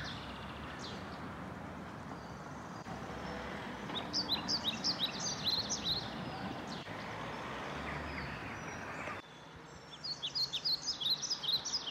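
Small birds chirping in quick runs of short, high notes over a steady outdoor background hum, mostly a few seconds in and again near the end. The background hum drops suddenly about nine seconds in.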